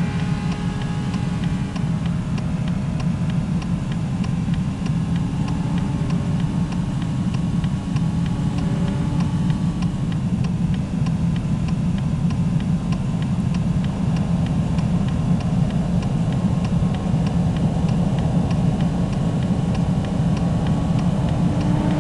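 A steady, low engine rumble with a faint, regular ticking over it, about two or three ticks a second.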